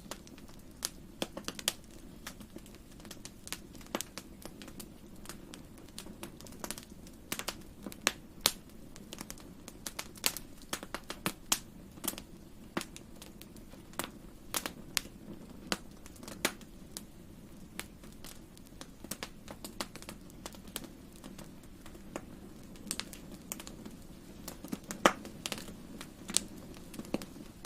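Fireplace fire crackling: irregular sharp pops and snaps, several a second, over a low steady rush of the flames.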